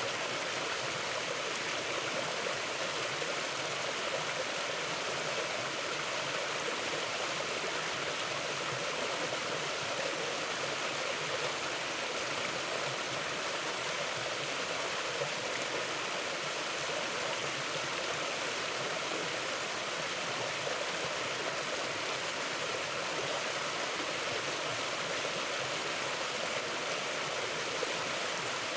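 Mountain river flowing, a steady, even rush of water that never lets up.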